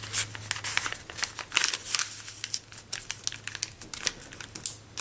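Sheet of paper being folded and creased by hand: irregular rustling and crinkling with small crisp crackles, over a faint steady hum.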